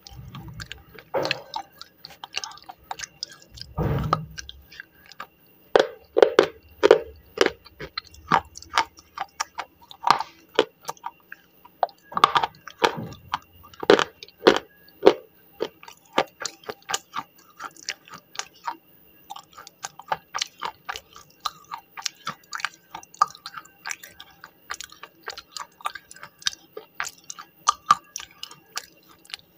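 Close-miked chewing of slate pencil: a steady run of short crunches and wet mouth clicks, with a few louder bites along the way.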